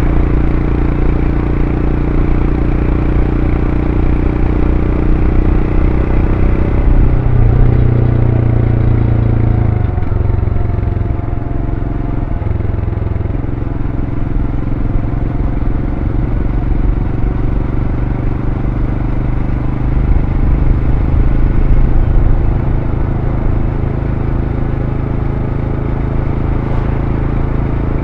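Royal Enfield Scram 411's 411 cc single-cylinder engine running through its stock exhaust while riding. The engine note changes pitch between about seven and thirteen seconds in, then settles into a steady note.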